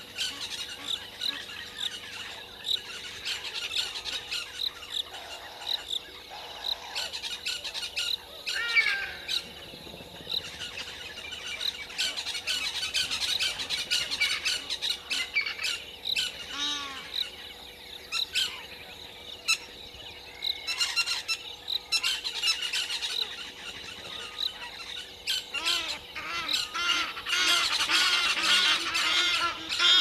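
Several wild birds calling outdoors: overlapping squawks and short rising and falling chirps, growing busier and louder near the end.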